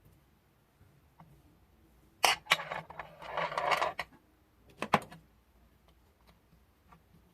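Small hard objects being handled on a work surface: a couple of sharp clicks about two seconds in, a rustling scrape lasting over a second, then two more sharp clicks around the five-second mark.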